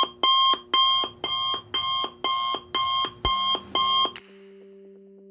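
An electronic alarm beeping in a steady repeating pattern, about two beeps a second, with each beep a bright, high-pitched electronic tone. It stops about four seconds in, leaving a faint steady low hum.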